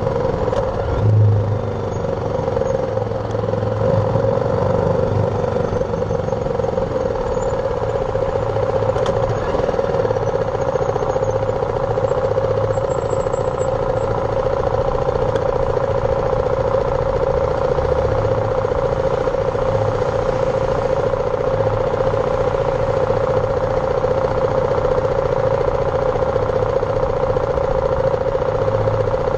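BMW G310R single-cylinder motorcycle engine running at a steady, even pace under way, mixed with road noise.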